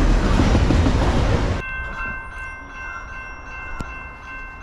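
Double-stack container freight train passing at close range, a loud rumble of wheels on rail. About a second and a half in it cuts off abruptly, leaving a much quieter steady chord of several high tones.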